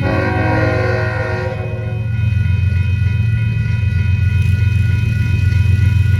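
Locomotive air horn sounds one chord-like blast of about two seconds at the start. Crossing bells ring steadily and a generator drones low throughout. After the horn stops, the approaching train grows louder.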